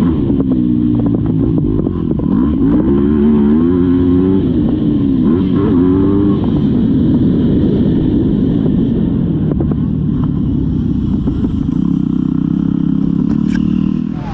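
Motocross dirt bike engine heard from a GoPro mounted on the rider or bike, its pitch rising and falling again and again as the rider opens and closes the throttle around the track. Near the end it holds a steadier pitch.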